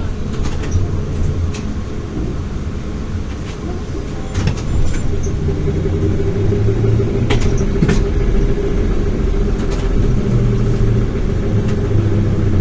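ZiU-682 trolleybus running, heard as a steady low rumble with a steady hum and scattered sharp clicks and rattles. It gets louder about four and a half seconds in.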